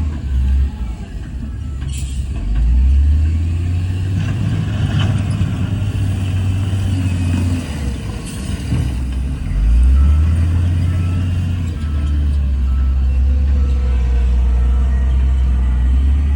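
Heavy diesel engine of earthmoving machinery working under load, its low drone rising and easing in long stretches as the load changes. There are sharp metallic clanks about two and five seconds in.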